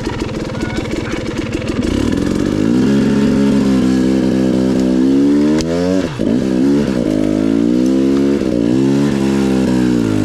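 Off-road vehicle engine running under way, its pitch rising and falling with the throttle, dropping sharply about six seconds in and then picking back up.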